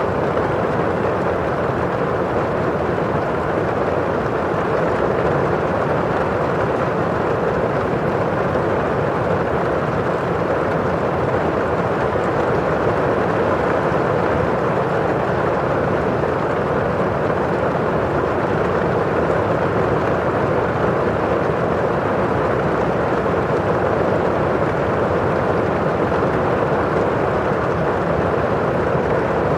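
Steady rain falling against a windowpane and on the surroundings outside, an even, low rush without breaks or single loud drops.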